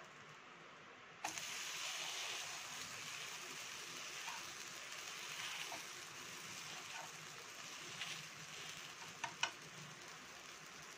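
A sweet wheat-flour dosa sizzling in oil on a hot griddle pan. The sizzle starts suddenly about a second in, as the dosa is turned over to cook its second side. Near the end come a couple of sharp clicks from the steel spatula against the pan.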